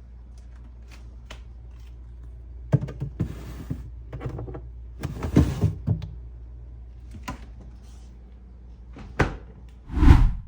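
Containers and groceries being handled and set down in a refrigerator: sharp knocks, clatters and short sliding scrapes over a steady low hum, with two heavy thumps near the end.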